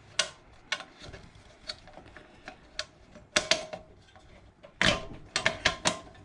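Irregular metallic clicks and clinks of hand tools and bolts as 8mm bolts are fitted to a Predator 212 engine, with a quick run of clicks near the end.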